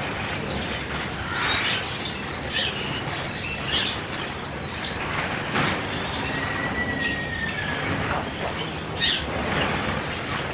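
Caged canaries chirping with many short calls, one drawn-out whistle in the middle, and a few brief bursts of wings fluttering.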